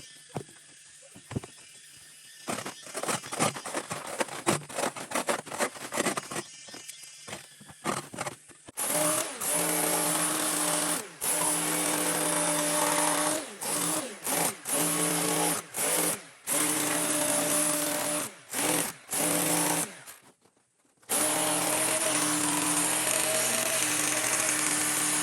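A handheld electric power tool: first a quick run of sharp clicks and knocks, then the motor running steadily, stopped and restarted many times in short bursts, with a longer pause about three-quarters of the way in.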